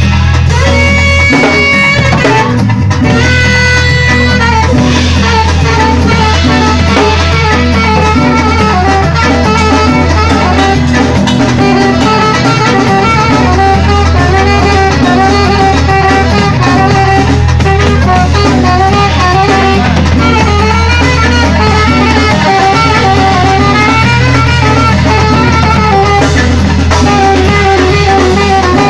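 Live band playing: a loud, steady bass under a winding, wavering melody line, with drums.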